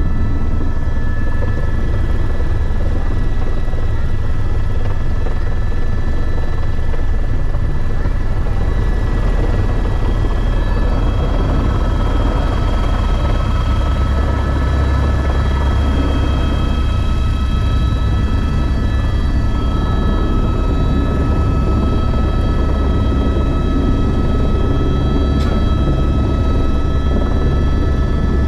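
Helicopter turbine engine and rotor running steadily: a heavy low rumble with a steady high whine over it.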